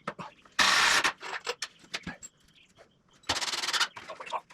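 A power drill driving screws into wooden framing in two short bursts, each about half a second, with small clicks and knocks of handling between them.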